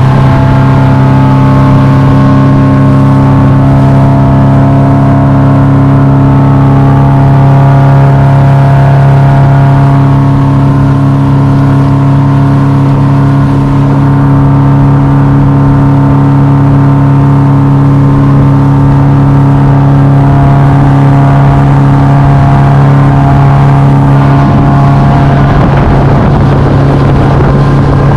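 Boat engine running at a steady cruising speed, a loud, even drone that hardly changes, turning a little rougher near the end.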